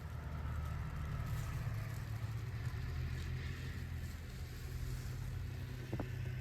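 Car engine running at low speed nearby, a steady low hum with faint tyre hiss.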